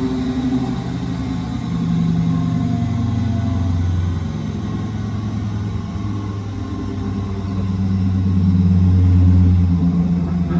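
Miele WS 5508 washing machine running a wool cycle: its drum motor hums steadily, the pitch stepping up and down every few seconds as the motor speed changes.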